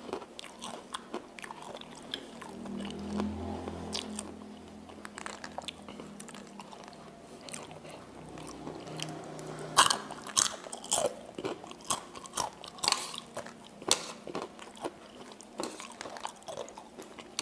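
Close-miked mouth sounds of a person chewing chicken noodles (mie ayam), with many short sharp clicks and smacks, the loudest about ten seconds in.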